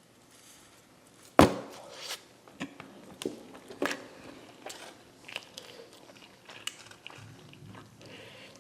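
Close-up eating sounds: irregular bites, chewing and small crunchy clicks of food. One sharp knock about a second and a half in is the loudest sound.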